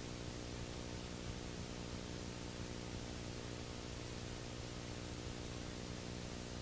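Steady hiss with a constant electrical hum of many evenly spaced tones underneath. This is recording noise with no other sound in it.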